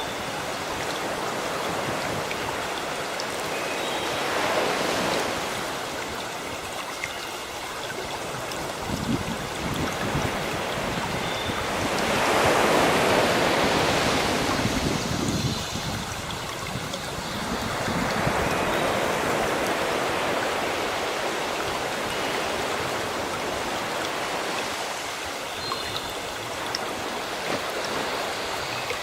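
Sea waves washing onto a shore in slow surges, one every several seconds, the biggest about halfway through, with birds chirping faintly over them.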